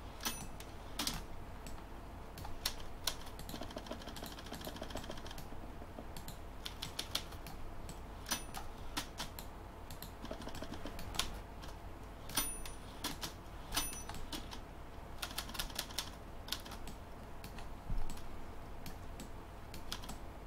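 Clicking at a computer: scattered sharp clicks of a mouse and keyboard, some coming in quick runs, while working in 3D modelling software.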